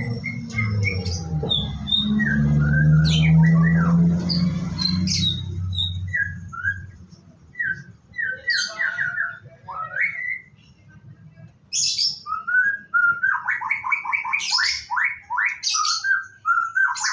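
White-rumped shama singing: separate clear whistled notes and slides, then from about twelve seconds in a fast run of rapid repeated notes. A loud low drone sits underneath for the first half and stops about seven seconds in.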